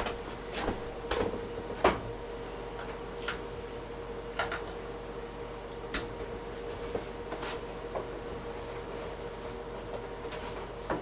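Scattered light clicks and knocks of the washer's plastic soap dispenser drawer being handled and worked out of its housing, over a steady faint hum.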